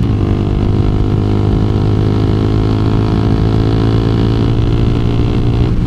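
2012 Honda CBR250R's single-cylinder engine running at a steady cruising speed, with an even, unchanging note.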